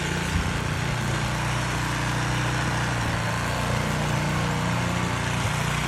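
A small engine running steadily at an even pitch, with no change in speed.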